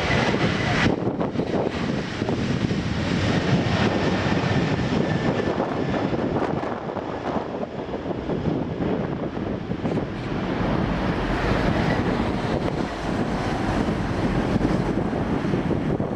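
Steady aircraft engine noise mixed with wind on the microphone. A faint high tone fades out about a second in.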